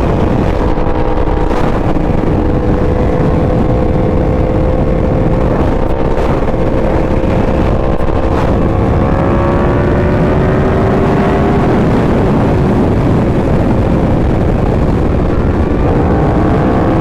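Sport motorcycle engine running at a steady cruise under heavy wind rush. The engine note holds, then climbs slowly in the second half, with a change in pitch near the end.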